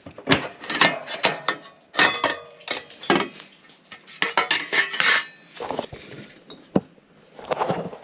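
A run of irregular sharp clinks, clatters and knocks of hard objects being handled and set down.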